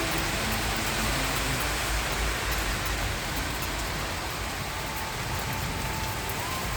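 Rain falling steadily, an even hiss of drops on surfaces. A faint thin tone comes in about two thirds of the way through and steps up slightly in pitch near the end.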